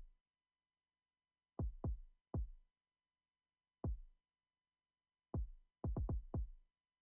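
Soloed electronic kick drum sample playing back a beat pattern from Maschine. Each kick is a short thump that drops quickly in pitch. There is a pair of hits and then another about a second and a half to two and a half seconds in, a single hit near four seconds, and a quick run of hits near the end, including the triple hit.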